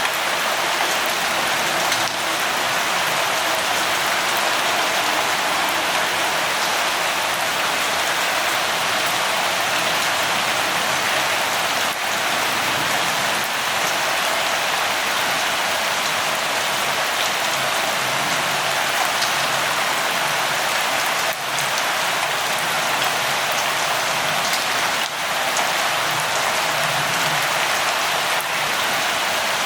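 Steady light rain falling, a continuous hiss with scattered individual drops ticking through it.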